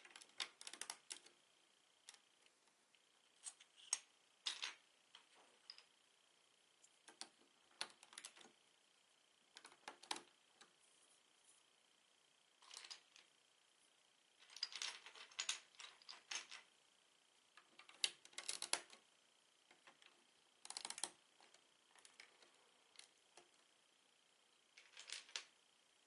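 Plastic Lego bricks being handled, giving short clusters of sharp clicks and clatters every couple of seconds.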